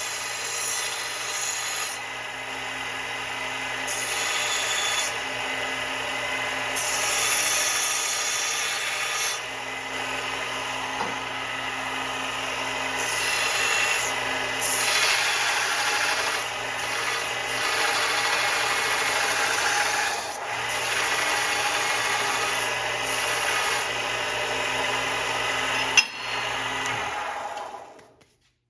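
Grizzly H8192 1x42-inch belt sander running, its small motor humming under a rough grinding as a workpiece is pressed to the moving belt in repeated passes, the grinding swelling and easing. A sharp click comes near the end, and the sound then dies away to silence.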